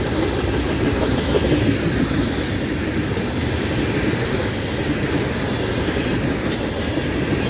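Florida East Coast Railway freight train rolling past close by: a steady rumble of wheels on rail with clickety-clack over the joints and a faint squeal from the wheels.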